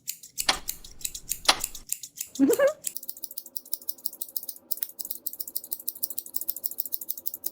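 Cartoon scissor-snipping sound effects: rapid metallic snips throughout, with a few swishes and a short rising vocal cry in the first few seconds. From about three seconds in, a steady hum sits under faster, denser snipping.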